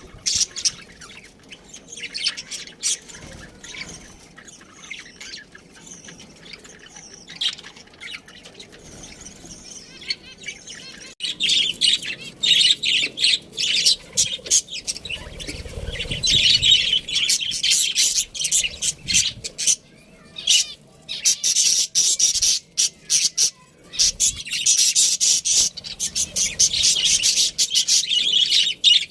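Pet budgerigars chirping and chattering: scattered chirps at first, then, about eleven seconds in, a louder, dense run of rapid chirps broken by short pauses.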